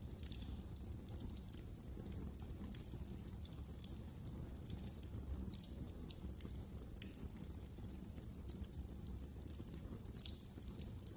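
Wood fire in a fireplace crackling: many small, irregular pops and snaps over a steady low rumble of the flames.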